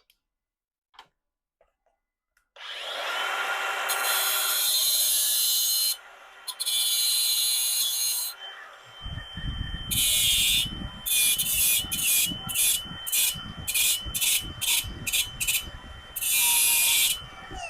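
An electric grinder spins up with a high whine and grinds the edge of a piece of hot rolled steel: a few long passes first, then about a dozen short quick touches, the whine dipping each time the wheel bites.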